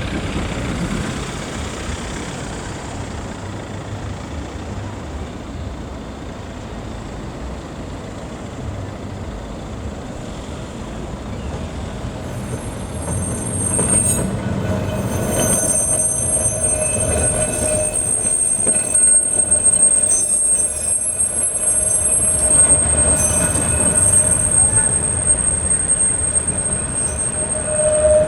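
Heritage tram running on the rails: a low rumble that builds about halfway through, joined by a high, steady squeal of the steel wheels on the rail that lasts to the end.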